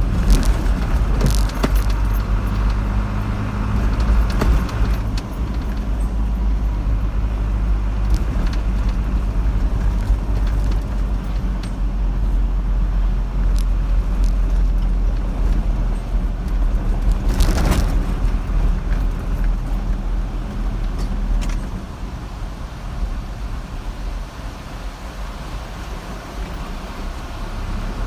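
Car driving along a road: a steady low rumble of engine and tyre noise with scattered light rattles, which eases off somewhat about three-quarters of the way through.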